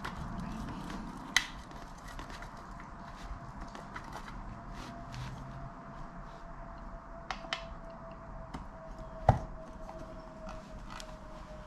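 Clicks, ticks and light knocks of metal parts and hand tools being handled on a workbench during brake pedal assembly work, with two sharper knocks about a second and a half in and again about nine seconds in.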